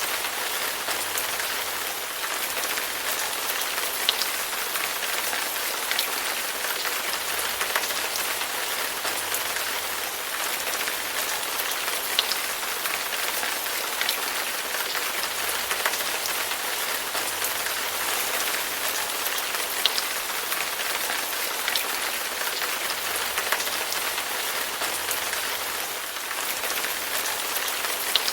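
Steady rain falling, an even hiss with the odd louder drop ticking sharply against a surface now and then.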